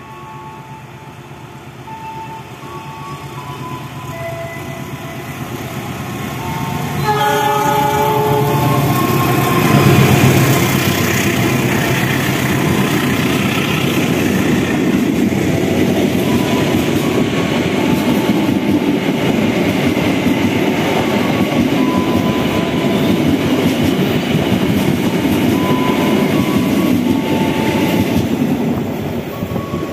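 A passenger train on the adjacent track approaches, sounds its horn for about two seconds, and then runs past close by, with a loud, steady rumble of wheels on rail for some twenty seconds that drops away near the end.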